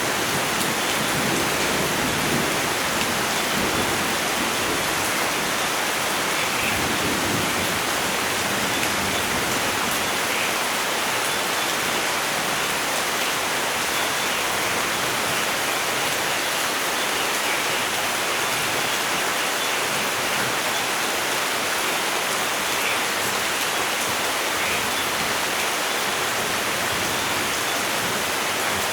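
Steady, heavy rain falling, an even hiss, with a low rumble of thunder dying away in the first few seconds.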